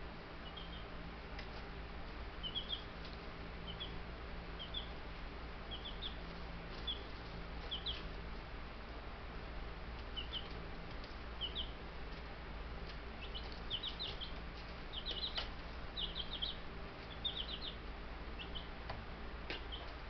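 Buff Brahma chicks, a few days old, peeping: short high peeps in little runs of two or three, coming more often in the second half.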